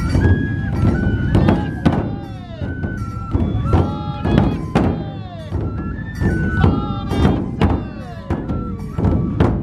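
Matsue dō festival procession music: large festival drums struck in a driving rhythm, with a high Japanese bamboo flute (fue) playing a stepwise melody over them.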